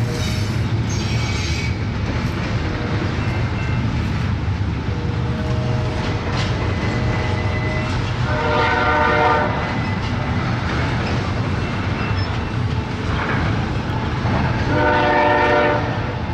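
Double-stack intermodal freight cars rolling past with a steady rumble and wheel clatter. A locomotive horn blows twice, about a second each, a little past halfway and near the end.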